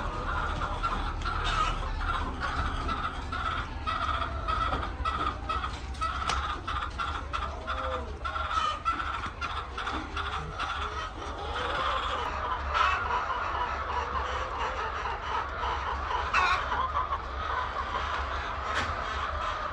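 A flock of chickens clucking, many birds calling over one another, with many short sharp clicks scattered through.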